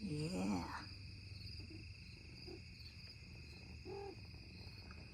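Crickets trilling steadily in a night chorus, with a brief faint call about four seconds in.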